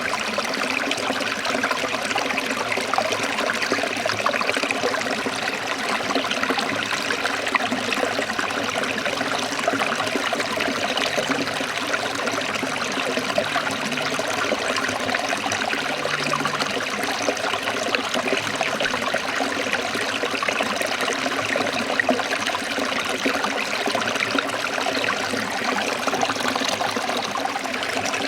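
Forest stream of water trickling and flowing, a steady, even rush of water.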